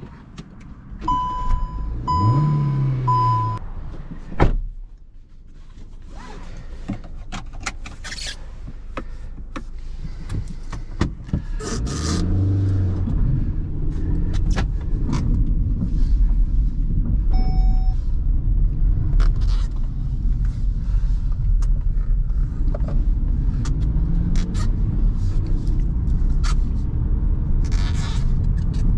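Kia Rio 1.2 MPI four-cylinder petrol engine starting with a brief rise in revs while the dashboard chime beeps three times, then a car door shutting with a thump. The engine idles, then pulls away through the gears of the 5-speed manual box, its note rising with each gear. A single short chime sounds partway through.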